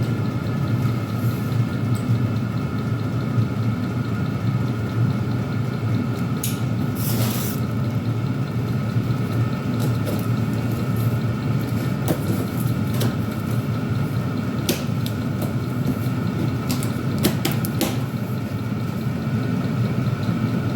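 Chinese diesel air heaters running: a steady low burner-and-blower drone with a constant fan whine over it. A few light clicks and knocks sound partway through.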